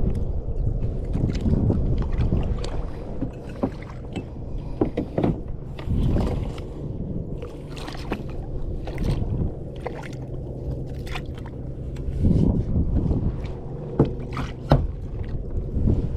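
Water sloshing and lapping against a kayak's hull, with scattered knocks and clicks from the boat and gear and a few louder splashes.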